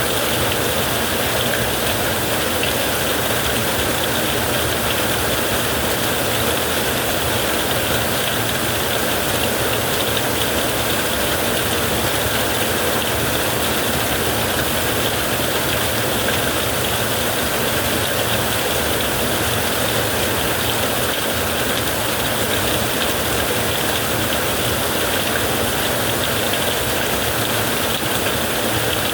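Heavy rain falling on a tent, a steady, unbroken downpour.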